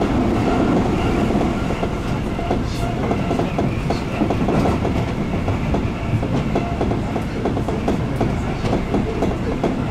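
Seibu 2000 series electric train running at speed, its wheels clattering over the track with many short irregular clicks over a steady rumble, heard from inside the train.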